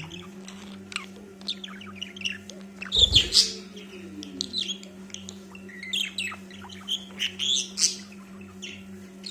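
Pet parrot chirping in many short, quick calls and clicks, with a louder call and a thump about three seconds in, over a steady low hum.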